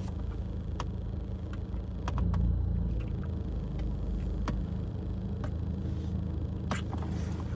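A steady low rumble, like an engine or motor running, that swells briefly about two seconds in, with faint scattered clicks over it.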